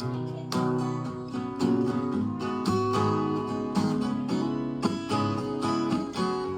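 Acoustic guitar strumming chords in an instrumental break of a country song, without singing.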